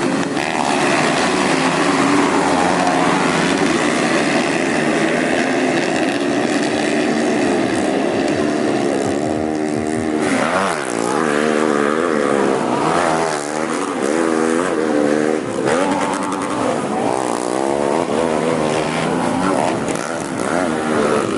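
Several motocross bikes' engines running hard together, a dense overlapping engine noise. From about ten seconds in, their pitches rise and fall repeatedly as the riders rev and change gear.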